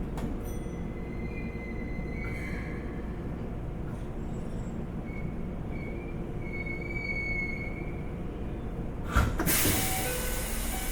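Keikyu 1500-series electric train, heard from inside the leading car, rolling slowly into the terminus: a low running rumble with short high-pitched wheel squeals. About nine seconds in comes a sudden loud hiss of compressed air.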